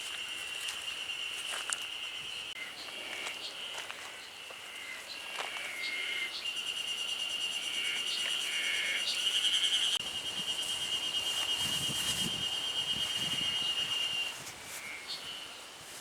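An insect trilling: a high, steady, fast-pulsed buzz held for seconds at a time. It is loudest about halfway through and stops shortly before the end. Short, separate chirps and a few light clicks are heard around it.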